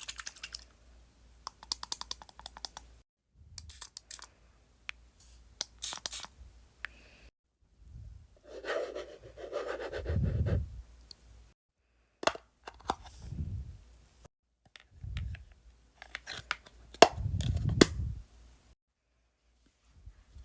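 Photocard packing sounds: packing materials being handled, with intermittent cutting, tearing and scraping noises and a few sharp clicks.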